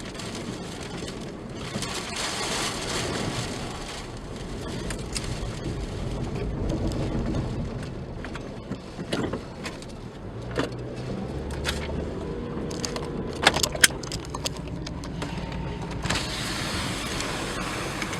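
A car driving away, with steady road and engine rumble. A few sharp clicks or knocks come about three quarters of the way through.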